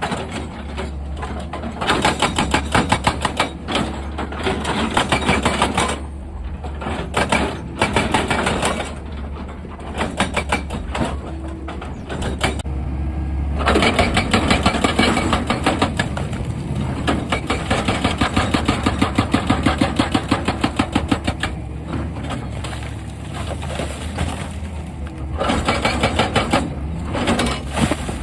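Excavator-mounted hydraulic rock breaker hammering in several runs of rapid, evenly spaced blows, over the steady low drone of the machine's diesel engine.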